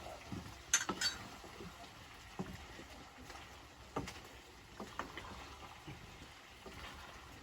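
Kitchen utensils clicking and clinking against a cooking pot, in scattered light knocks a second or so apart.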